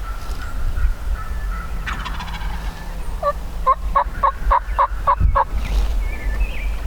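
Wild turkeys calling: a rattling gobble about two seconds in, then a run of about eight evenly spaced yelps, over a low rumble of wind on the microphone.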